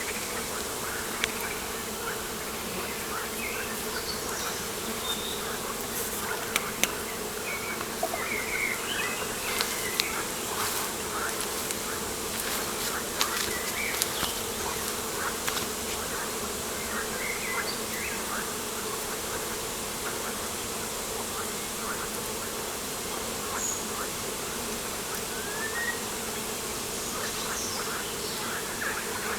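Steady insect buzzing, a continuous hum, with scattered short bird chirps over it and a few sharp ticks in the first half.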